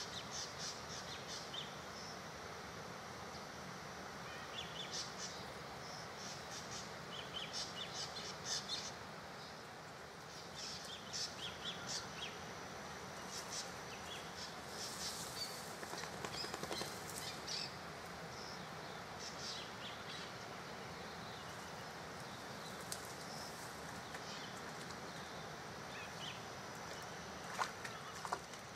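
Small birds chirping and twittering in short, quick, high-pitched clusters, on and off throughout, over a steady outdoor background hiss.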